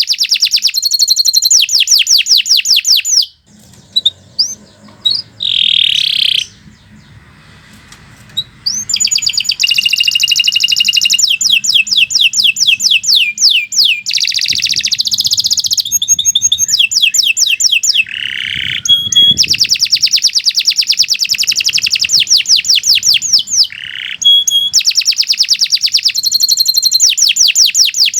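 Domestic canary singing long rolling trills of rapidly repeated notes. It breaks off for a few seconds of scattered short phrases soon after the start, then sings on almost without pause.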